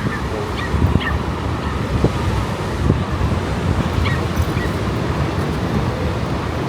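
Steady outdoor noise, strongest in the low range, with a few short high chirps over it.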